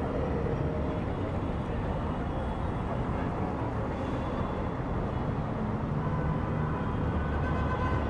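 City street traffic noise: a steady wash of passing vehicles with a low engine rumble that grows a little louder near the end.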